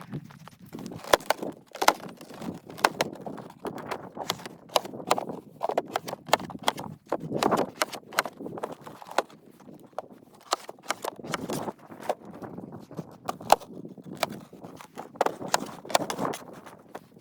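Footsteps crunching in snow at a walking pace, about one step a second, each with a sharp crunch.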